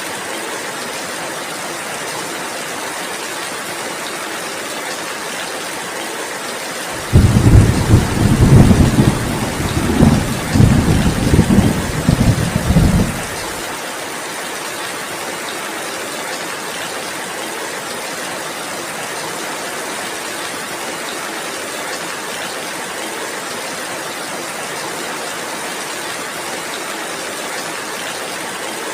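Steady heavy rain, with a roll of thunder that breaks in suddenly about a quarter of the way through and rumbles low and loud in several peaks for about six seconds before dropping back under the rain.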